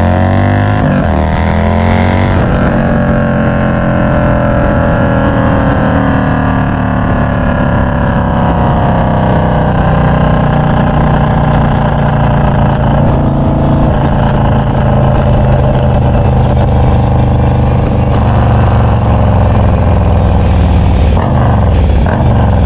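Motorcycle engine under way, running loudly. Its pitch climbs quickly through the gears at the start, then eases down and holds a steady cruise before rising again near the end.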